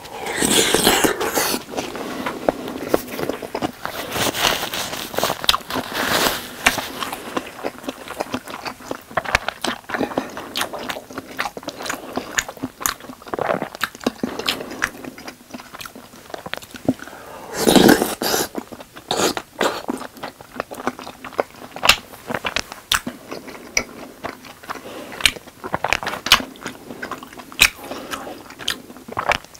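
Close-miked chewing of tteokbokki, chewy rice cakes and fish cake in sauce: wet mouth noises, bites and smacks coming irregularly, with one louder, longer noise a little past halfway.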